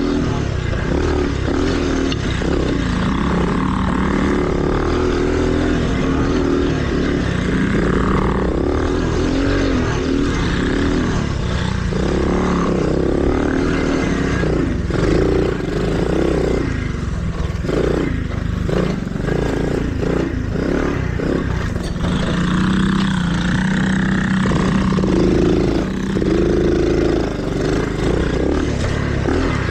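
Small dirt bike engine running under a constantly changing throttle while being ridden, its pitch rising and falling with the revs.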